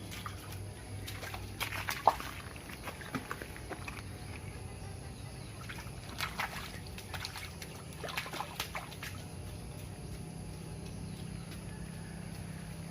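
Water splashing and dribbling as toy cars are washed by hand in water, in a few short clusters of splashes with quiet stretches between.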